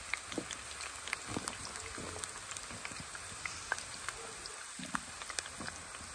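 Onion frying in hot oil in a pot, a steady sizzle with scattered sharp pops and crackles. The onion is browning to flavour the oil.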